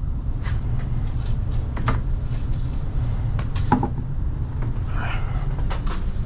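Loaded delivery cart of stock being wheeled and bumped through a tight spot: a steady low rumble with a few scattered knocks and clatters.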